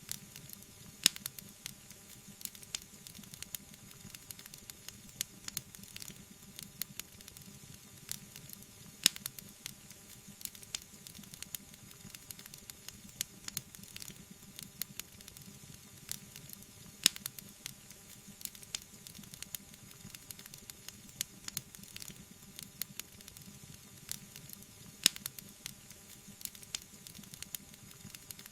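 Wood fire crackling: a soft steady hiss under many small sharp crackles, with a louder pop about every eight seconds.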